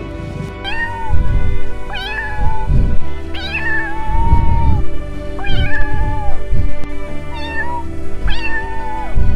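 A cat meowing six times, one call drawn out longer than the others, over background music with a steady low beat.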